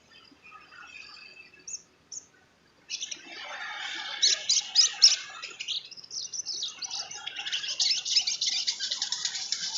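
Sunbird (sogon trotol) singing: two short high chirps, then from about three seconds in a fast, dense, high-pitched twittering chatter that keeps going.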